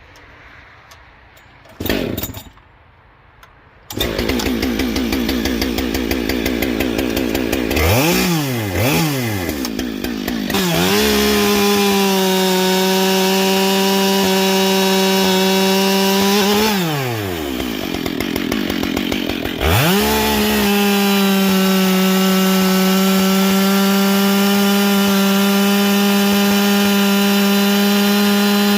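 Husqvarna 572 XP two-stroke chainsaw, fitted with a new carbide chain, starting about four seconds in and idling, blipped twice, then held at a steady high-revving full throttle. It drops back to idle for a couple of seconds and then goes back to steady full throttle.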